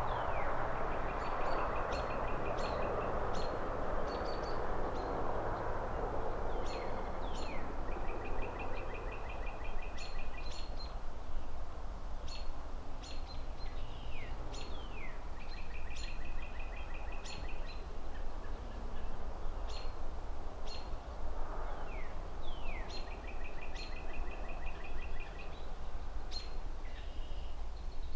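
Songbirds chirping over and over in short rapid trills, downward-sweeping notes and high pips, above a steady low rumble of distant city traffic. A rushing hiss is strongest at the start and fades over the first several seconds, and a fainter one swells briefly near the end.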